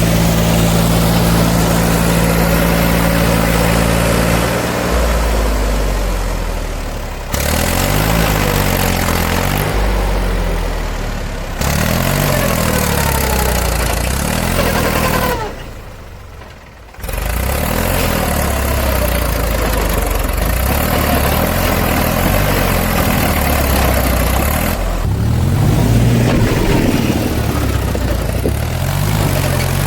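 Diesel engines of a JCB 3DX backhoe loader and tractors at work, revving up and falling back over and over. The sound changes abruptly several times, with a short dip about sixteen seconds in.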